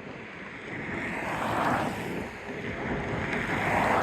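Road traffic passing on a busy street: a steady whoosh of tyre noise that swells twice as cars go by, once about a second and a half in and again near the end.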